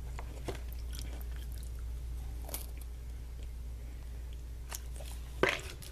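Someone chewing crunchy Meiji Yan Yan biscuit sticks with vanilla cream dip, a few sharp crunches standing out, the loudest near the end, over a steady low hum.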